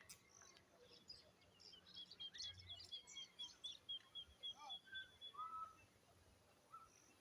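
Faint birdsong: a quick, even run of short high chirps, about five a second, with a few lower whistled notes, between about two and five and a half seconds in.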